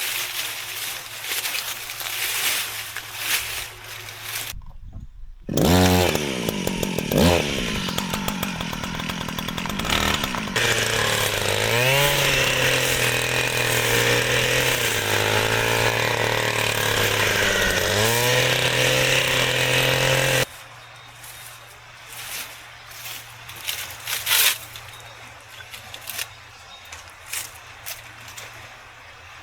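A small petrol engine revs up twice, then runs steadily under load for about fifteen seconds, its pitch dipping and recovering, and cuts off abruptly. Scattered clicks and knocks come before and after it.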